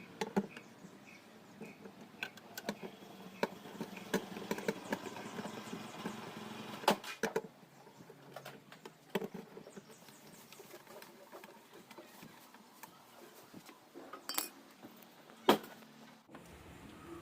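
Scattered clicks, taps and knocks of small hard objects being handled, with a faint low hum through roughly the first half.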